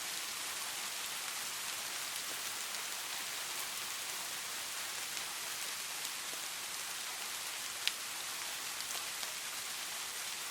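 Steady rain, an even hiss with scattered individual drops ticking, one sharper drop standing out about eight seconds in.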